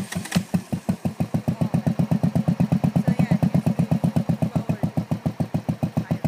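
Motorcycle engine catching and then running at low revs with a steady, even beat of about eight or nine pulses a second.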